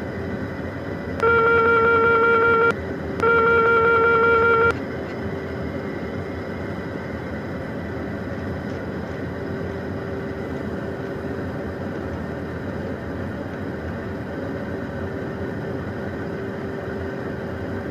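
Two long electronic tones from the cockpit aural alerting system of a Beechcraft Premier 1A jet. Each lasts about a second and a half, and they come about half a second apart over a steady cockpit hum.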